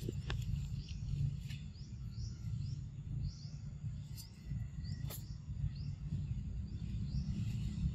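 Outdoor ambience: a constant low rumble with a bird's short high chirps repeating about three times a second in two runs, and a few sharp clicks.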